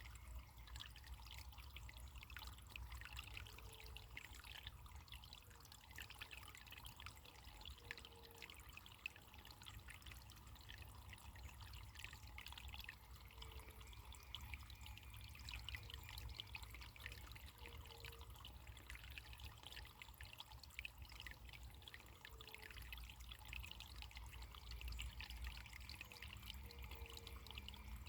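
Faint running water: a small stream trickling and splashing steadily, with a low rumble underneath.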